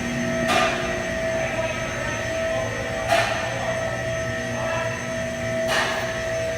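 Steady machine hum with several held tones, broken by three short sharp hissing bursts, evenly spaced about two and a half seconds apart.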